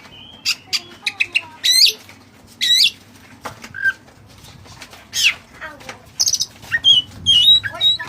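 Oriental magpie-robin (kacer) singing a varied song of sharp chirps, whistled rising and falling notes and short rapid trills, given as a challenge call to lure a rival.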